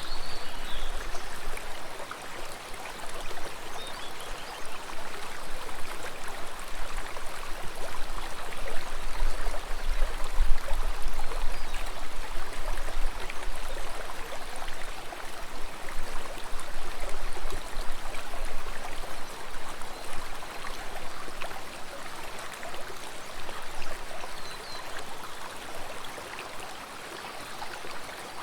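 Flowing water of a stream, rushing and gurgling steadily with small swells in loudness. A few faint high chirps come through about half a second in and near the end.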